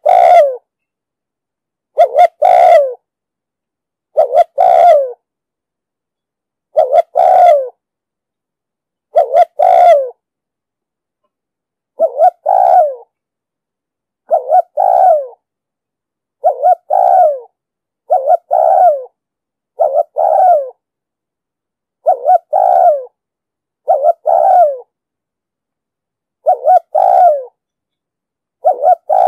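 Spotted dove giving its cooing call over and over. Each phrase is a couple of quick notes and then a longer falling coo, repeated about every two seconds and a little faster in the second half. This is the dove's cooing song, used as a lure call to draw in wild doves.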